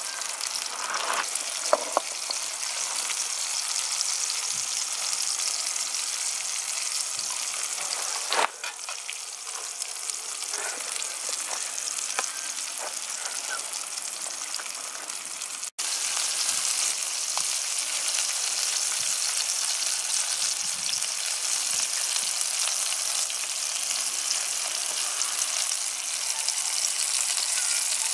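Fish fillets frying in hot oil in a metal frying pan: a steady sizzling hiss, with a few light clicks in the first half.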